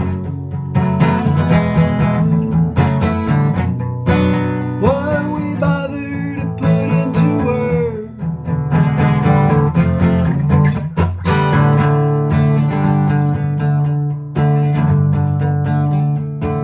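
Song's instrumental break: strummed acoustic guitar over a steady low accompaniment, with a gliding melody line about a third of the way through.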